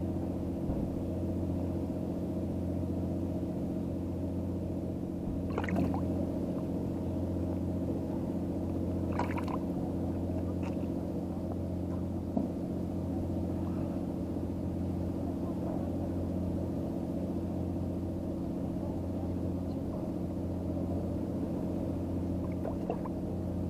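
An engine running steadily at idle, a low even drone, with two brief higher sounds over it about six and nine seconds in.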